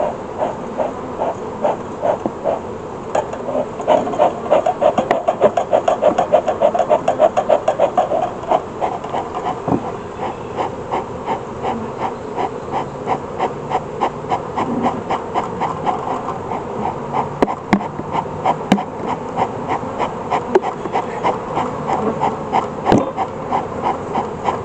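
Honeybees buzzing loudly around an open hive, a dense hum that pulses at a fast, even rate, with a few sharp clicks.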